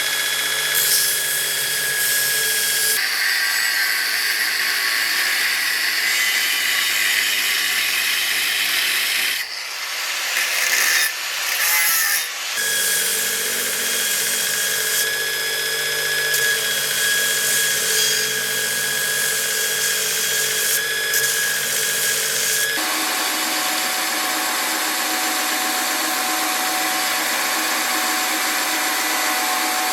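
Electric power tool running steadily with a grinding, rubbing sound as work is held against it. About ten seconds in there is a short break of irregular scraping and handling before it runs steadily again, and its tone shifts a few times.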